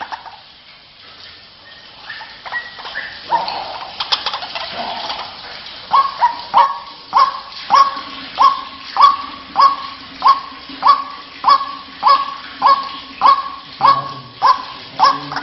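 White-breasted waterhen calling. A few scattered calls come first. From about six seconds in, short, sharp calls repeat in a steady run, a little under two a second.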